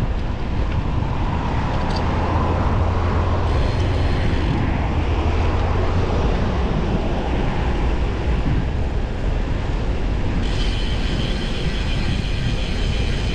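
Wind buffeting the microphone along with steady road and traffic noise while riding a road bike, heaviest in the low rumble and swelling a little a couple of seconds in.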